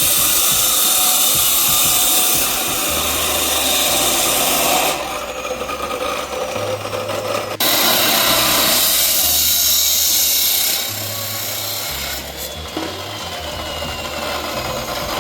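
Power tool running in two long loud stretches with a harsh rasping noise. It eases off about five seconds in and again near eleven seconds, each time with a falling whine as it spins down.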